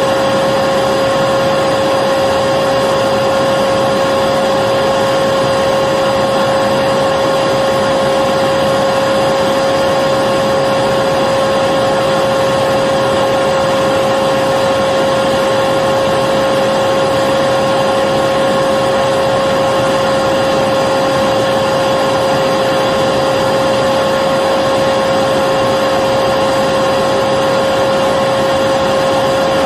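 Electric vacuum cleaner running steadily, its motor holding one constant whine over a broad rushing noise with no change in speed.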